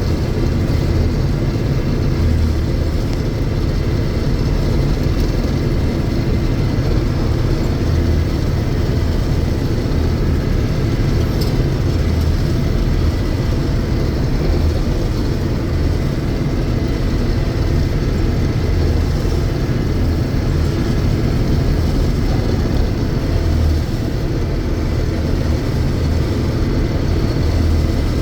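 1982 John Deere 6620 Turbo combine running steadily while cutting soybeans: a continuous low drone of its six-cylinder turbo diesel engine mixed with the rumble of the threshing machinery, unchanging throughout.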